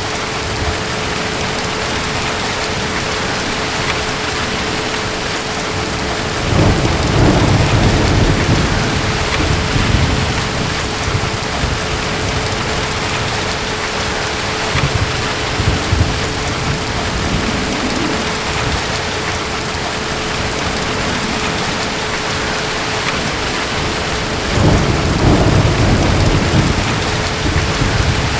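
Steady heavy rain with two deep rolls of thunder. The first rumbles for a few seconds about a quarter of the way in, and the second near the end. A faint steady hum runs underneath.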